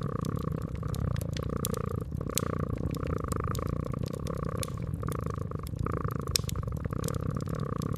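Domestic cat purring steadily, the purr swelling and easing in cycles of about a second, over a wood fire crackling with scattered sharp pops.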